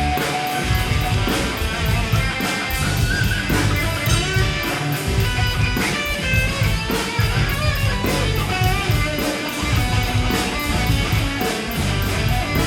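Live rock band playing an instrumental passage without vocals: electric guitar over a drum kit keeping a steady beat.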